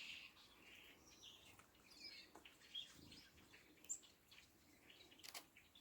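Faint, scattered chirps and short calls of small songbirds in the trees, with a single faint click a little past five seconds in.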